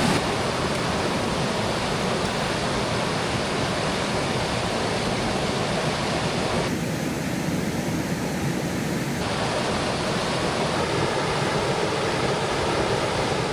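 Mountain creek flowing, a steady, even wash of rushing water. Its hiss turns duller for a couple of seconds midway.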